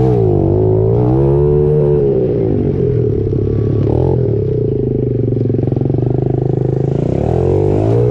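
Pit bike's small single-cylinder engine running under throttle, its pitch rising and falling as it revs up and eases off, twice.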